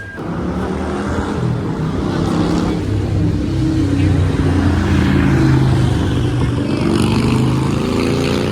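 A motor vehicle's engine running close by, its pitch rising as it accelerates over the last few seconds.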